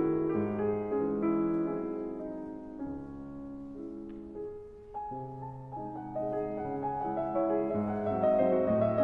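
Background piano music, slow and gentle, softening around the middle and growing louder again toward the end.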